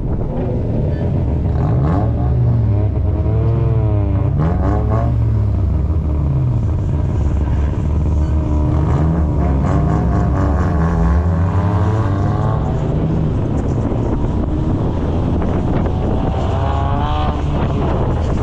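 Car engine revving over a steady low rumble, its pitch climbing and falling in several swells.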